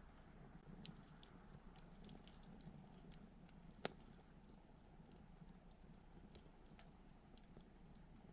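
Wood campfire crackling faintly: scattered small snaps and ticks, with one sharper, louder pop about four seconds in.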